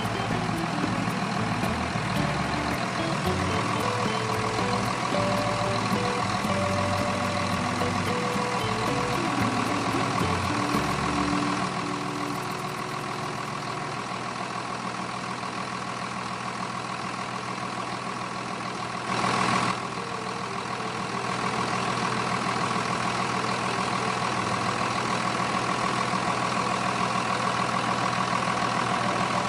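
A heavy engine running at a steady speed, with a brief louder burst about two-thirds of the way in.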